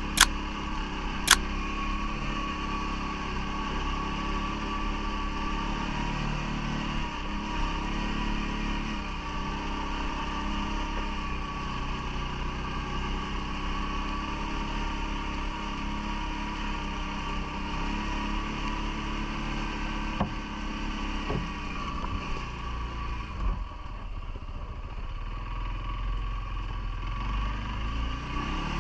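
CFMoto ATV engine running steadily, with two sharp clicks in the first second and a half. The engine note eases and drops for a few seconds about three-quarters of the way through, then picks up again.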